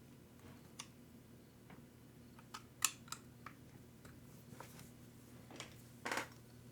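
Scattered light clicks and taps of small parts and tools being handled on a workbench, the sharpest a little under three seconds in, and a brief scraping rustle about six seconds in, over a faint steady hum.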